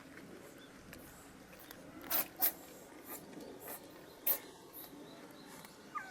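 Cats crunching dry cat food: a few sharp, irregular crunches, the loudest about two seconds in.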